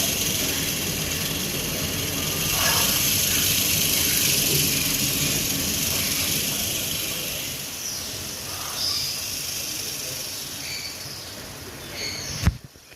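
Porcupine shaking its quills as a warning to predators: a dense, dry rattling hiss that slowly fades, with a sharp knock shortly before it cuts off.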